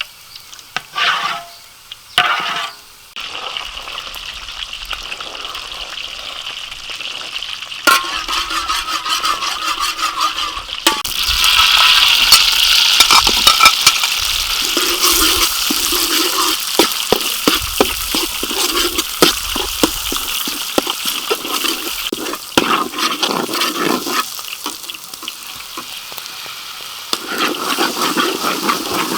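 Food frying in hot oil with a steady sizzle that swells sharply about eleven seconds in, with scattered clicks and knocks of a utensil stirring in the pan.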